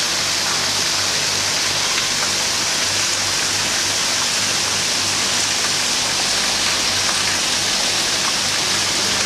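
Steady rush of falling water, even and unbroken, with a faint low hum underneath.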